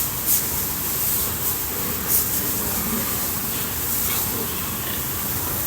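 Water spraying from a hose or water jet in a steady hiss, with a couple of brief louder spurts.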